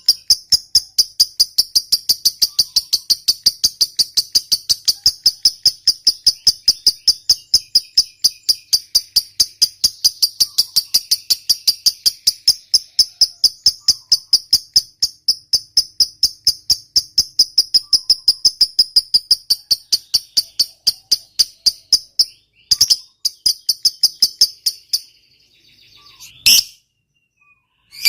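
Lovebird 'ngekek panjang': a long unbroken chattering trill of rapid, shrill, evenly spaced notes that runs for over twenty seconds, breaks off briefly, then stops near the end, followed by a couple of single sharp calls.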